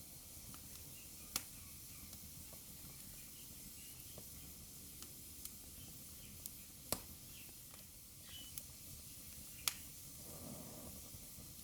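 Wood fire burning in a fireplace: a soft steady hiss with scattered sharp crackles and pops, the three loudest at about one and a half, seven and nearly ten seconds in.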